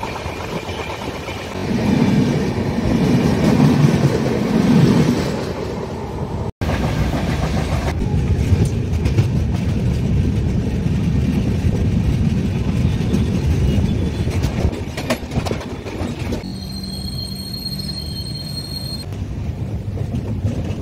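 Passenger train running on the rails with a steady low rumble. Near the end a high, steady whine sounds for a couple of seconds.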